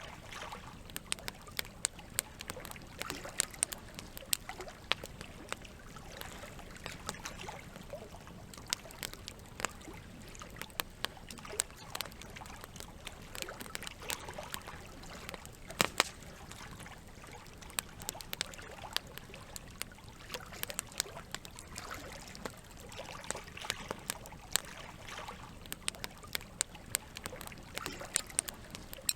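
Campfire crackling with irregular sharp pops, the loudest about halfway through, over a steady trickle of flowing water.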